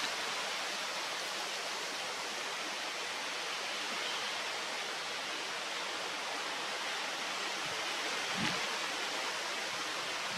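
Steady, even rushing outdoor noise, with a brief low thump about eight and a half seconds in.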